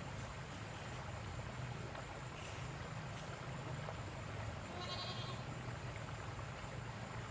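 A goat bleats once, a short wavering call about five seconds in, over a steady low hum.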